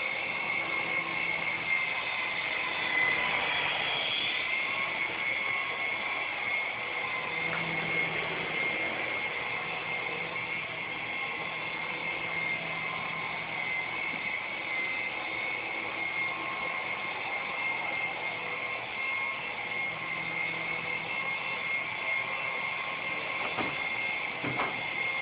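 S107G mini RC helicopter's small electric motors and coaxial rotors giving a steady high whine in flight, the pitch wavering briefly a few seconds in. Two faint clicks come near the end.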